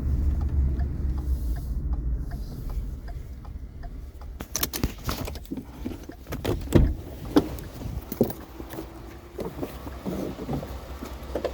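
Low vehicle engine rumble with a light, even ticking for about four seconds. Then a run of sharp metallic clanks and rattles from scrap or gear being handled.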